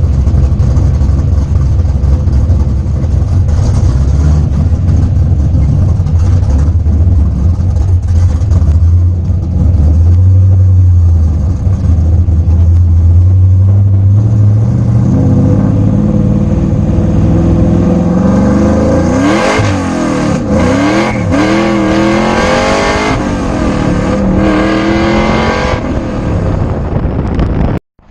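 Car engine running with a deep, steady drone, then accelerating hard about halfway through, its pitch climbing and dropping several times as it revs through the gears. The sound cuts off abruptly near the end.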